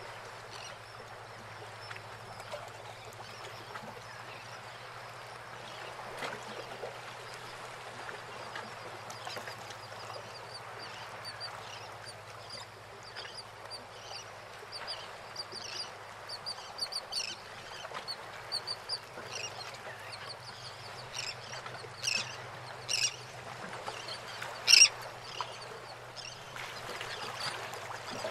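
Birds calling: runs of short, high chirps through the middle, with a few louder squawks near the end.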